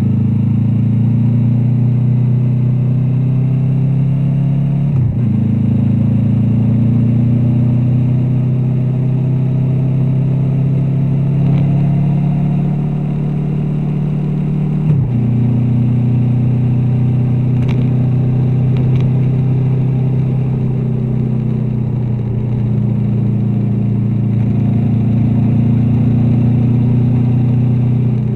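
Honda VFR800's V4 engine running steadily through an aftermarket Black Widow exhaust while the bike is ridden, with the engine note breaking briefly twice, about five and fifteen seconds in, as it changes gear.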